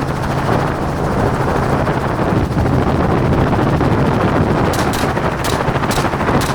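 Helicopter running steadily, and near the end a rapid string of about five rifle shots, roughly two a second.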